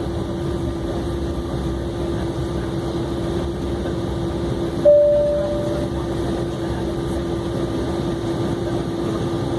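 Steady cabin noise of an Embraer E190 airliner taxiing, with a constant low hum. About five seconds in, a single cabin chime rings out and fades over about a second.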